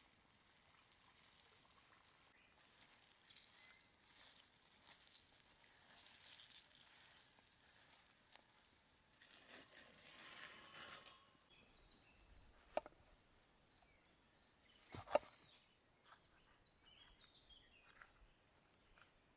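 Quiet sauce preparation in the open air: a soft liquid hiss for several seconds, then two sharp knocks a couple of seconds apart, with faint bird chirps near the end.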